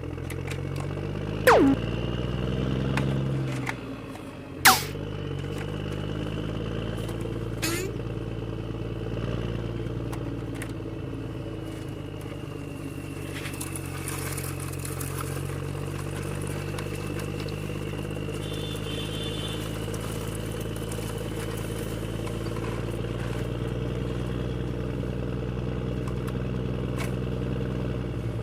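Toy vehicle's engine-like drone, a steady pitched hum that rises over the first few seconds and then holds. Two sharp, fast downward swoops, about a second and a half and about five seconds in, are the loudest sounds.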